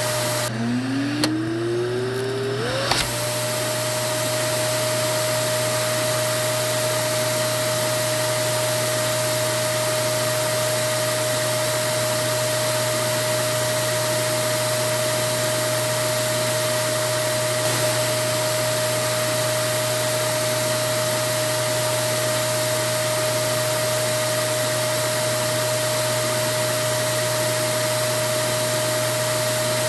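Vacuum cleaner motor spinning up with a rising whine about a second in, reaching its steady pitch after about three seconds. It then runs on steadily: a constant whine over a rush of airflow noise.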